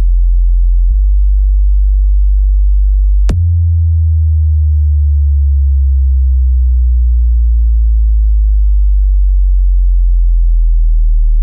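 Very loud, deep electronic bass test tone, close to a pure sine, holding steady. A sharp click comes about three seconds in, and after it a second deep tone slowly glides down in pitch while the lowest tone carries on underneath.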